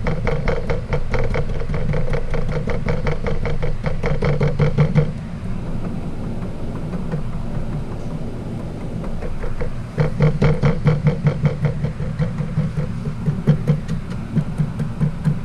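Fiberglass laminating bubble roller being rolled back and forth over resin-wetted cloth, working out air bubbles. It makes a rapid, even clicking with a low buzzing tone in two spells, the first ending about five seconds in and the second starting about ten seconds in. A steady low hum runs underneath.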